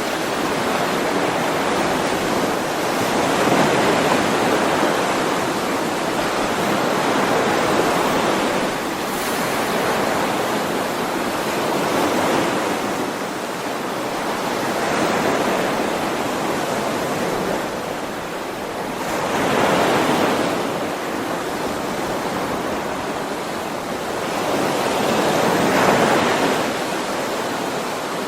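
Sea waves washing onto a shore: a continuous surf wash that swells and eases every few seconds, with stronger surges about 20 and 26 seconds in.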